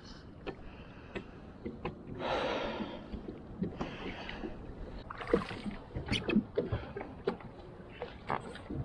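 Water slapping and small knocks against a fishing kayak in wind: many short scattered clicks over a noisy background, with a louder rush of noise about two seconds in.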